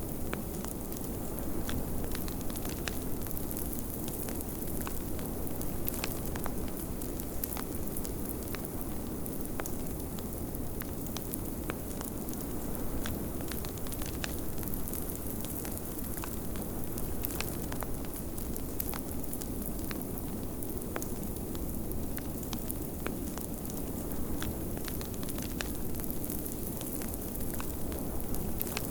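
Wood fire crackling in a fireplace, with frequent small sharp pops, over a steady rushing noise of blizzard wind.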